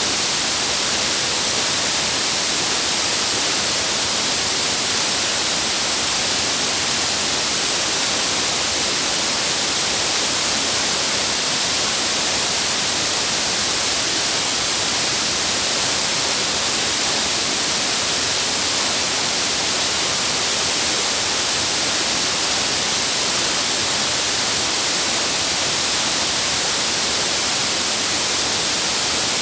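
Waterfall rushing: a loud, steady hiss of falling water that never changes.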